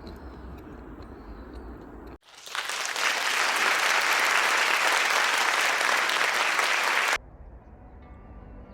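A loud, even rushing noise starts suddenly about two seconds in and cuts off suddenly about five seconds later.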